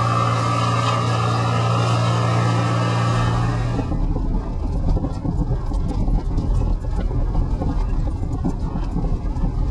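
A steady hum with two held tones that cuts off sharply about four seconds in. Gale-force wind then buffets the microphone with a gusty, uneven low rumble.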